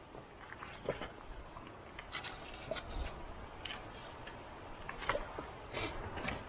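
Irregular small clicks, scrapes and rustles of objects being handled.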